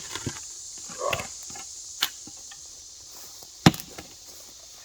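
Mattock blade chopping into dirt and roots around a small tree stump: a few separate sharp strikes, the loudest about two-thirds of the way through. Insects keep up a steady high buzz behind.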